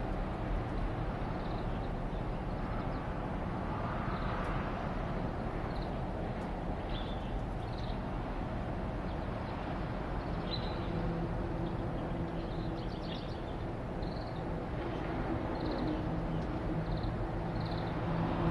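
Aircraft passing overhead: a steady drone, with an engine hum that comes in about two-thirds of the way through and grows louder toward the end. Small birds chirp briefly now and then.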